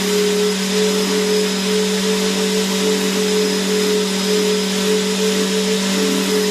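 Vacuum cleaner motor running steadily: a constant hum with a whine over an even rushing hiss of air, with no change in pitch or level.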